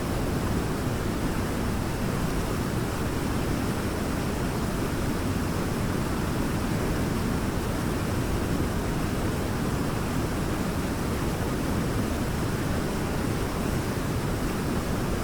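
Waterfall rushing steadily, an even roar of falling water with no breaks or changes.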